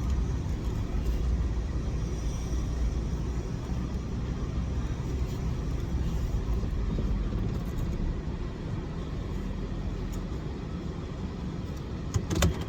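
Car driving slowly, heard from inside the cabin: a steady low rumble of engine and road noise, with a few short knocks near the end.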